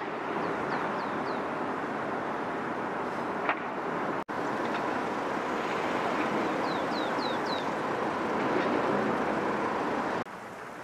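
Steady broad background noise with a small bird chirping twice, each time a quick run of four falling notes. The noise cuts out for a moment just after four seconds in and drops lower near the end.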